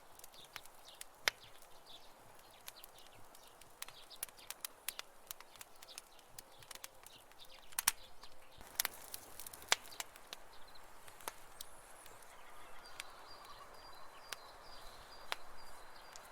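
Campfire burning: wood crackling with many irregular sharp pops, a few much louder than the rest, over a soft hiss. A faint high steady tone joins in the last few seconds.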